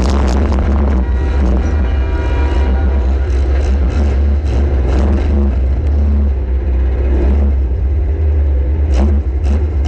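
Compact demolition-derby car's engine running hard with a heavy low rumble, broken by scattered metal knocks and bangs, two sharp ones near the end.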